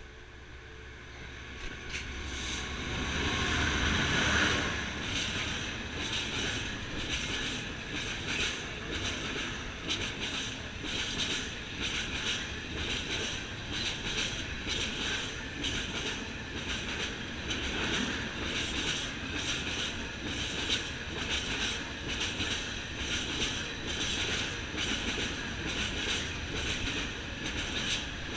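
British Rail Class 66 diesel freight locomotive, with its EMD two-stroke V12 engine, running through at speed, loudest about four seconds in as it passes. A long rake of stone wagons follows, rolling past with a steady rhythmic clatter of wheels over rail joints and a light squeal of wheel on rail.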